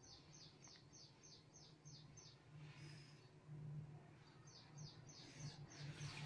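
Faint bird chirping: runs of short, falling high notes, about three a second, which pause for a couple of seconds in the middle and then start again, over a faint low hum.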